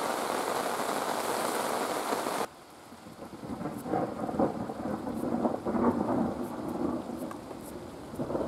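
Heavy rain hissing, cut off abruptly about two and a half seconds in, followed by a long rolling rumble of thunder that swells and fades over the rain.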